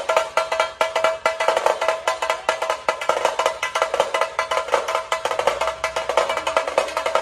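Tashas, the small stick-beaten kettle drums of a Maharashtrian dhol-tasha pathak, played in fast, dense strokes with a bright ringing tone. A low rumble joins about five seconds in.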